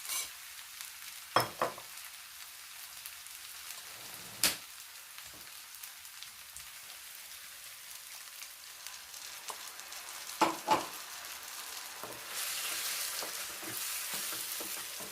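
Chicken curry sizzling in a pan on low heat, a steady hiss that grows louder near the end, with a few sharp clinks of a spoon against the pan: twice early on, once a few seconds later, and twice more later on.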